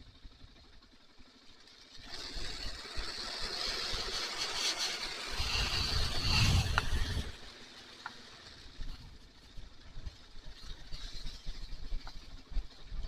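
Kawasaki KLR650 motorcycle underway, heard from the rider's helmet camera. About two seconds in, a loud rush of wind and engine noise swells for about five seconds, then falls back to a quieter steady ride.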